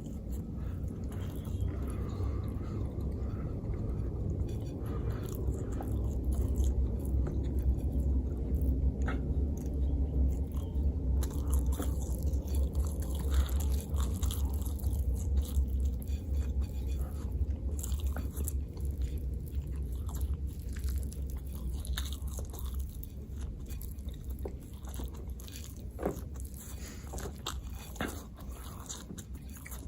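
A person chewing and eating food close to the microphone, with scattered short mouth clicks over a steady low rumble.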